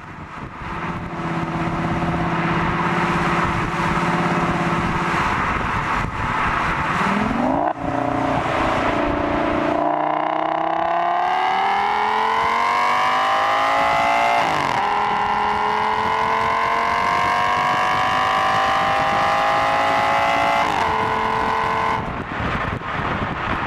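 Audi S6's 5.2-litre V10 breathing through a Milltek exhaust, accelerating hard. Its note climbs steadily in pitch and drops sharply at several upshifts, about 8, 15 and 21 seconds in.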